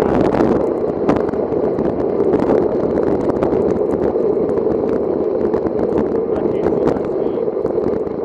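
Steady rushing wind and tyre noise from a bicycle ridden on a wet road, picked up by a ride-mounted camera, with frequent small ticks and knocks throughout.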